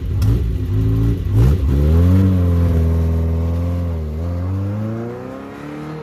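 1979 Ferrari 308 GTS's carburetted V8 accelerating away, the revs climbing, dipping and climbing again, growing fainter as the car pulls off into the distance.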